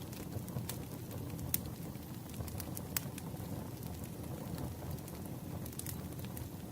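Campfire crackling: a steady low rush of burning wood with sharp, irregular pops, the loudest about three seconds in and another at the very end.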